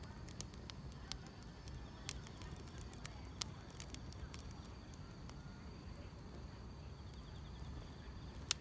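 Wood fire crackling, with a few sharp pops scattered over a low steady rumble, the loudest pop near the end. A faint high trill of insects runs underneath.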